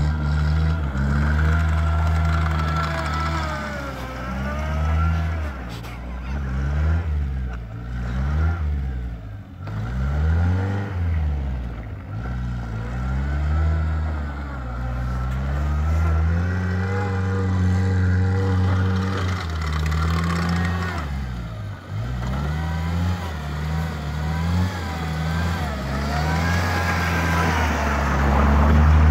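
1983 Mitsubishi Galant's engine revving up and down over and over as the car spins its wheels and slides in circles on snow, with a louder rev near the end.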